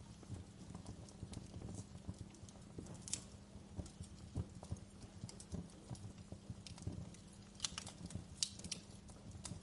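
Wood fire crackling in a fireplace: a low steady rumble of flame with irregular snaps and pops, a few sharper pops about three seconds in and again near the end.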